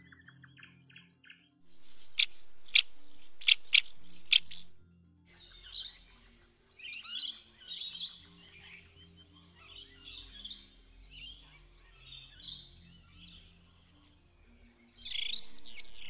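Birds chirping and chattering over soft background music. About two seconds in comes a loud stretch of sharp, strident calls, and a loud burst of song follows near the end.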